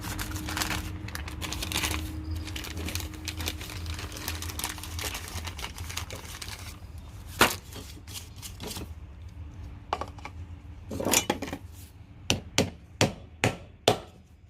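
Handling and rummaging noise from parts and tools, then a few separate knocks and, near the end, a regular run of sharp taps about two a second as a wheel bearing is tapped at in a push mower's plastic (poly) wheel.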